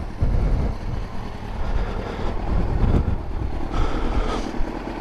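Motorcycle engine running low and steady, with wind buffeting the microphone.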